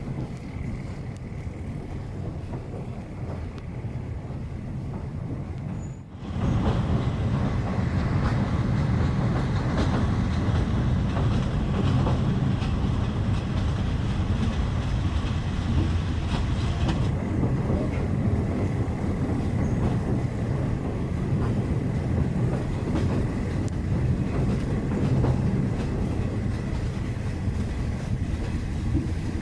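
Passenger train running along the track: a steady rumble and rattle of the carriages with wheel-on-rail noise. About six seconds in it cuts suddenly to a louder stretch of the same running sound.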